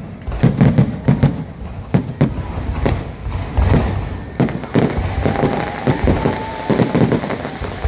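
Fireworks display: a rapid, irregular run of bangs and crackling pops, with low booms among them.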